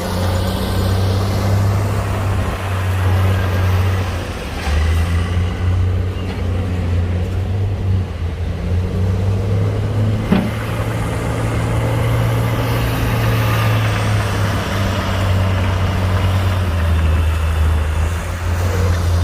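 Heavy diesel engine of earthmoving machinery running steadily with a low drone whose pitch steps up and down a few times, and one sharp knock about ten seconds in.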